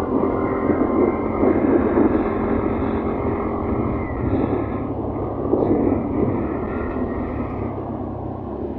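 Motor scooter running steadily along the road, a continuous rumble of engine and road noise.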